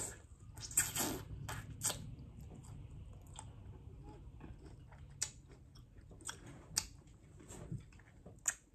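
Close-up chewing and crunching of candied plums with a glossy hard sugar coating, wet mouth sounds with sharp crunches scattered through, the loudest about a second in and again near the end.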